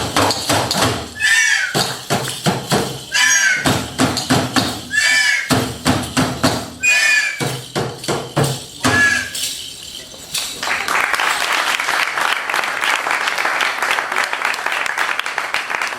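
Live percussive performance: sharp strikes with a short falling high tone recurring about every two seconds. About ten seconds in it gives way to steady audience applause.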